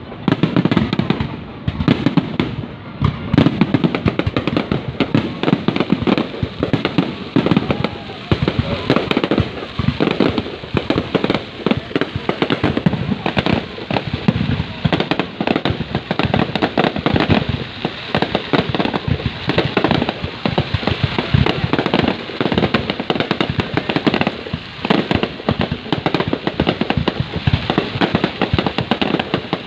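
Fireworks display: a dense, continuous barrage of bangs, pops and crackles with no pause.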